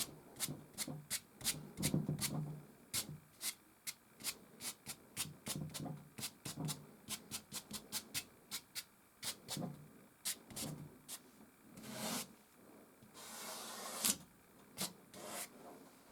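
Soft pastel stick scratching across canvas in quick short strokes, about two or three a second. Toward the end come a couple of longer rubbing strokes.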